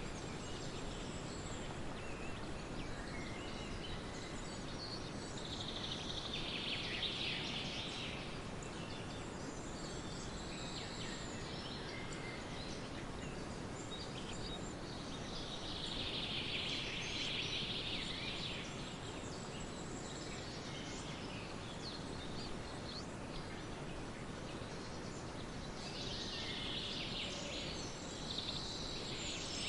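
Birds singing in bouts about every ten seconds, with thin high whistles between them, over a steady background noise.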